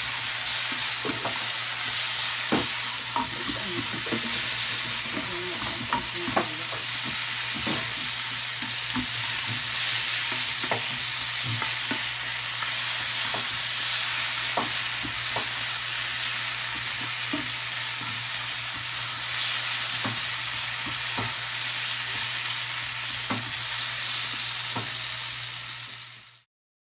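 Garlic, onion and tomato sizzling in oil in a nonstick frying pan, with a spatula scraping and tapping on the pan as they are stirred. The sound cuts off abruptly near the end.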